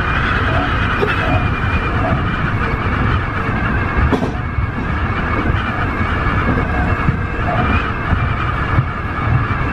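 Tobu 50090 series electric train running steadily: a continuous low rumble of wheels on rail with a steady motor hum above it, and a single sharp click about four seconds in.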